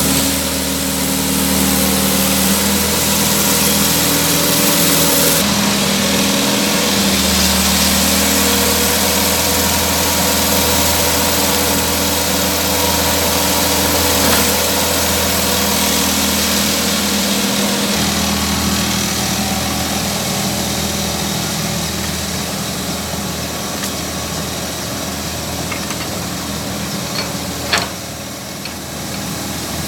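Excavator's diesel engine running steadily as it digs a ditch, its pitch stepping up and down a few times as the hydraulics take and release load. A single sharp clank near the end.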